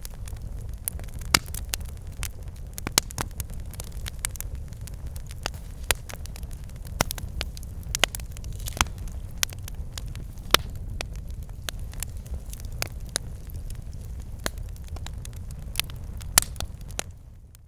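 Wood campfire burning: irregular sharp crackles and pops over a steady low rumble of the flames. The sound fades out near the end.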